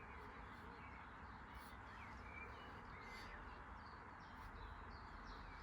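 Quiet background with faint, scattered chirps of distant birds over a low steady hiss and hum.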